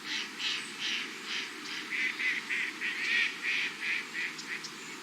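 A duck quacking in a quick run of short, harsh calls, about three to four a second, over a steady background hiss.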